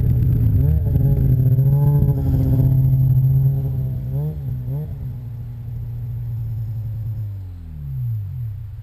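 Snowmobile engine running under throttle, its pitch rising and falling. It gets quieter about halfway through, then falls steadily in pitch near the end before the sound cuts off suddenly.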